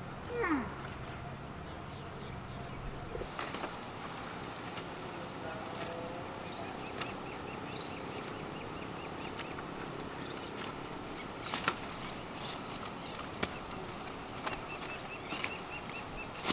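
Quiet rural ambience: a steady hiss with runs of soft, evenly repeated high chirps and a few scattered clicks, plus one short falling squeak near the start.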